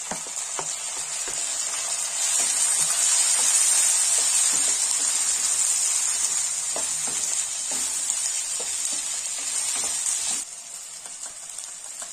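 Potatoes, onion and freshly added chopped tomatoes sizzling in hot oil in a kadai, with a wooden spatula stirring and knocking against the pan. The sizzle swells about two seconds in and drops sharply about ten seconds in.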